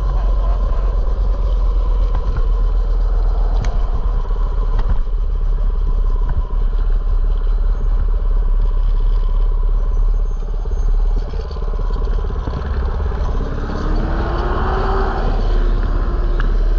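Mini bike's small engine running under way with a heavy, steady low rumble. About three-quarters of the way through, a tone rises in pitch and then levels off.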